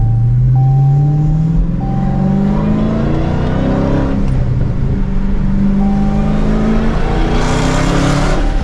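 Dodge Challenger Hellcat's supercharged V8 with its mufflers and mid pipes deleted, running loud as the car drives and accelerates, its note rising in pitch in several sweeps. A loud rush of noise comes near the end.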